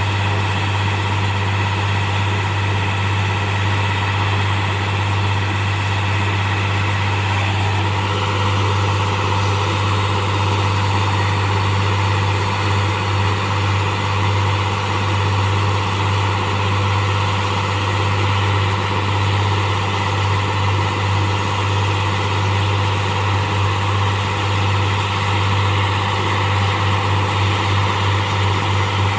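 Heavy diesel engine of a railway track-changing machine running steadily with a deep, constant hum. There is a slight shift in its higher tones about seven to eight seconds in.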